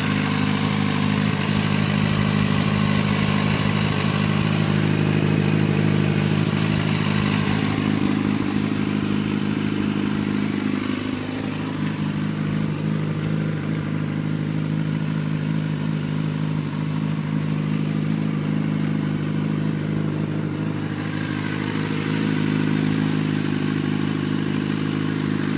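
Yamaha YZF-R6 (RJ05) inline-four engine running at a steady idle, with an odd mechanical noise the owner cannot identify. A brighter clattering over the engine note fades about eight seconds in and returns about 21 seconds in.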